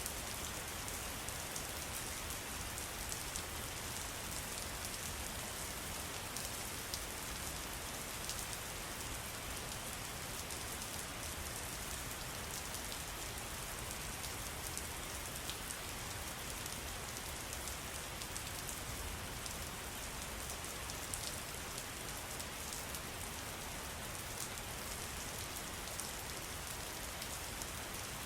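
Steady, even patter of falling water, with many small drop ticks.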